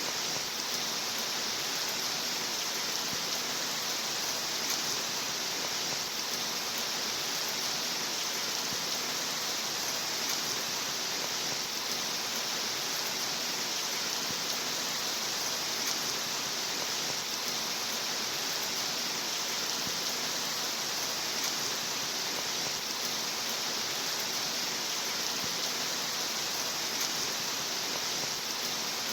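Steady rain: a constant, even hiss with no single drops or thunder standing out.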